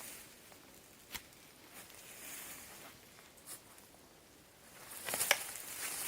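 A few light, scattered clicks and rustles, then a louder stretch of rustling and crunching about five seconds in.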